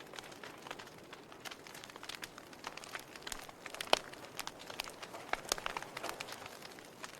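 Fire crackling: irregular snaps and pops over a soft steady hiss, with one sharper pop about four seconds in.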